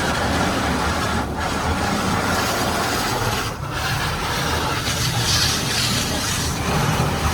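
High-pressure rinse water from a touch-free car wash's spray arm blasting against the car, heard from inside the car as a loud, steady rushing hiss that swells brighter about five seconds in.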